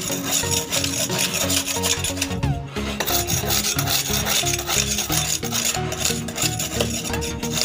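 Rapid, rough rasping scrapes against a ship's hull, knocking off oyster growth, with background music playing a melody underneath.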